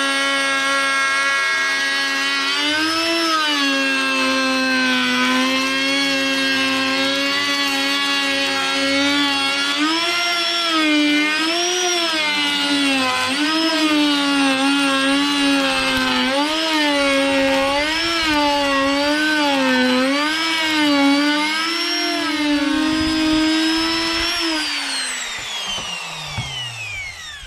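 Fiolent 1.1 kW electric router running at high speed and milling, its whine dipping in pitch again and again as the bit takes load and recovering in between. Near the end it is switched off and winds down with a falling whine.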